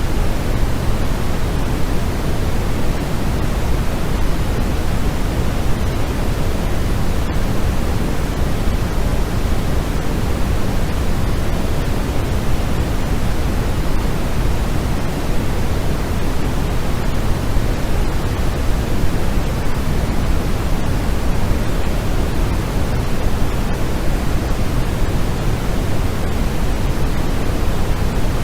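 Steady white noise for sleep: an even, unchanging hiss, fuller in the low end than the high.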